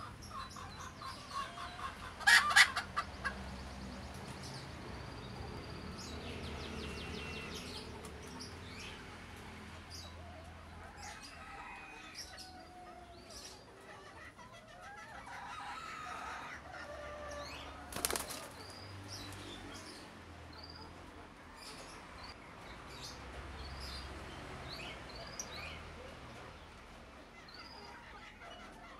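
Pigeon wings flapping, loudest as a quick burst of wing strokes about two seconds in, with a sharp knock later on. Short high squeaks, typical of a begging squab, come again and again throughout.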